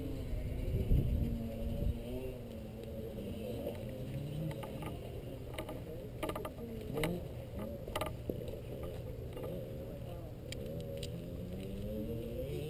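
Dirt bike engine revving up and down, its pitch rising and falling repeatedly, with a cluster of sharp clicks and knocks in the middle.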